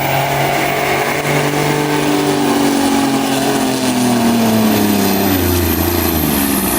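Pulling tractor's engine running hard under load, its pitch falling slowly over several seconds.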